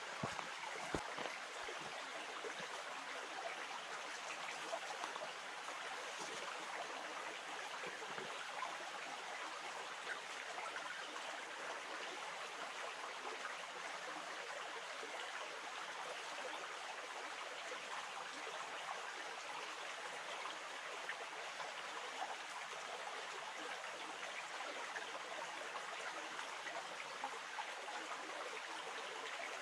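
River water flowing steadily, a continuous babble.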